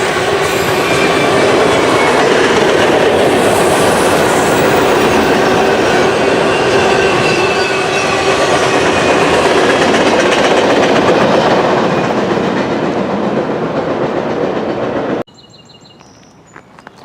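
Freight train cars rolling past close by, steel wheels running on the rails with a faint, steady wheel squeal. The sound cuts off abruptly near the end, leaving a quiet background with a few faint high chirps.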